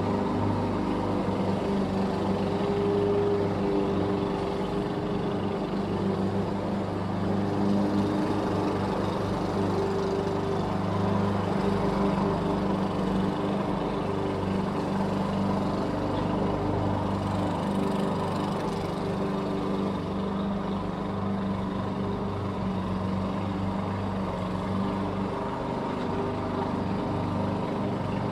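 Lawn mower engine running steadily, with a steady hum and slight swells in level.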